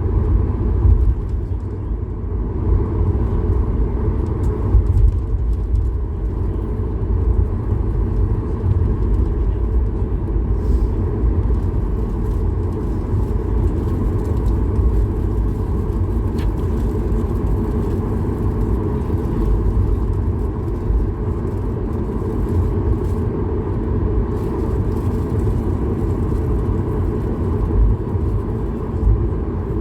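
Steady low rumble of airliner cabin noise aboard a Boeing 737-8200 MAX, with the engine and airflow noise holding an even level throughout.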